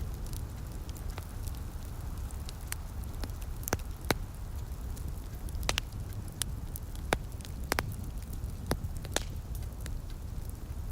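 Wood fire crackling: irregular sharp pops and snaps, a dozen or so, over a steady low rumble.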